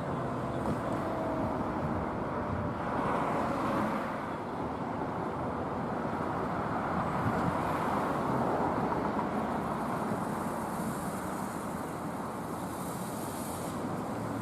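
Road traffic noise: cars passing on a street, rising and falling with no siren.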